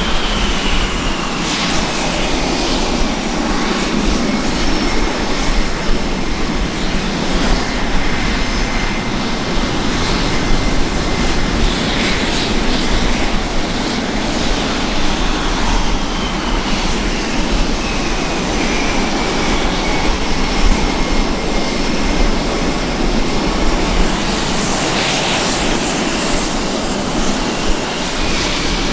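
Fighter jet engine running at a steady, loud level, with a high whine that slowly falls in pitch near the start and again over the second half.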